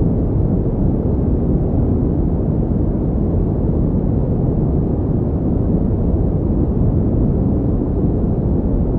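Steady pink noise, a deep, even rushing hiss with no changes.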